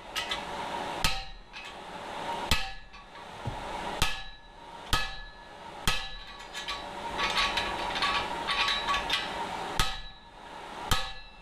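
Hand hammer striking a hot mild steel bar on an anvil, drawing it out for a nail header: heavy ringing blows about one a second, with a run of lighter, quicker taps in the middle, over a steady hum.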